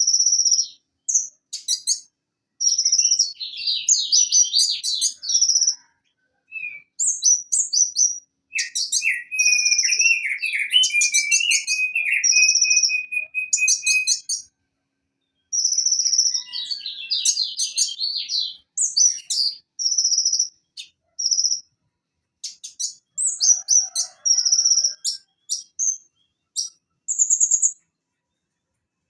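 Van Hasselt's sunbird (konin) singing: quick bursts of high-pitched sharp notes and trills with short pauses between them, and a lower run of notes from about nine to fourteen seconds in.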